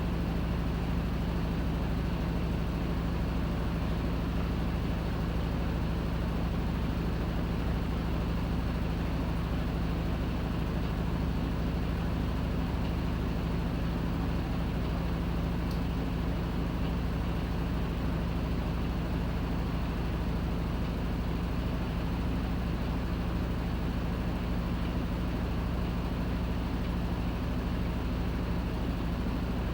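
Panasonic NA-FA100H9 top-loading washing machine running mid-cycle: a steady, unbroken motor hum with no pauses, with a faint tick about halfway through.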